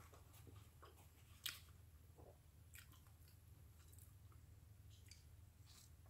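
Faint eating sounds: soft, scattered mouth clicks of a person chewing, with one sharper click about a second and a half in, over a low steady hum.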